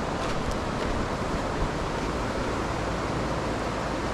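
Steady rush of a fast mountain river flowing over stones.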